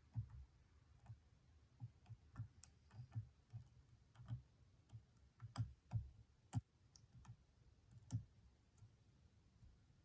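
Faint, irregular clicks and taps of a lock pick working the pins of a Stanley challenge padlock under tension, with a few sharper clicks around the middle and one more later on.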